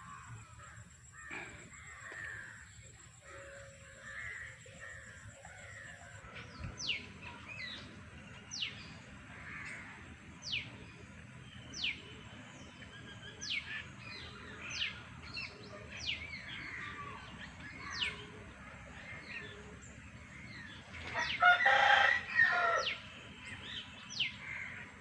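A rooster crows once about 21 seconds in, the loudest sound, over repeated short, high, falling chirps of small birds about once a second.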